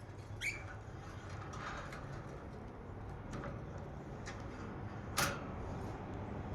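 Budgerigars, mostly quiet: one short, falling chirp about half a second in and a brief sharp sound about five seconds in, with faint ticks over a steady low hum.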